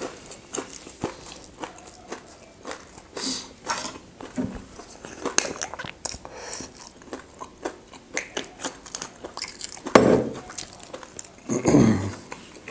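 A person chewing food close to the microphone, with many small wet mouth clicks and crunches. Two louder sounds stand out, about ten seconds in and just before the end.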